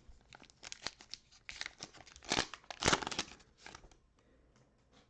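Crinkling and tearing of a plastic cellophane wrapper on a basketball trading-card cello pack being opened by hand, a run of irregular crackles loudest in the middle that dies away about four seconds in.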